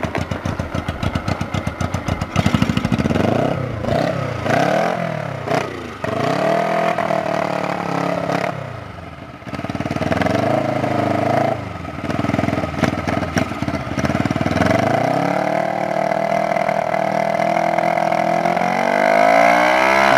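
Honda CB125 twin-cylinder engine running through open header pipes, loud: a fast, even idle for the first couple of seconds, then a series of throttle blips that rise and fall, and a longer rev climbing near the end. It runs a little rough, which the owner puts down to carburetor mixtures needing adjustment.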